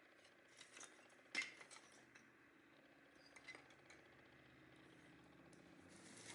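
Near silence: faint room tone broken by a few light clicks and clinks, the sharpest about a second and a half in.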